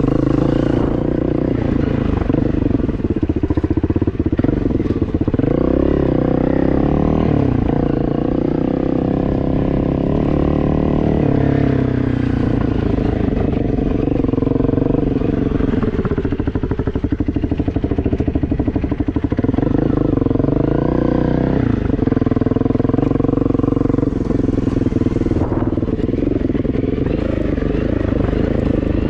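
Enduro dirt bike engine running continuously while being ridden, its pitch rising and falling repeatedly as the throttle is opened and closed.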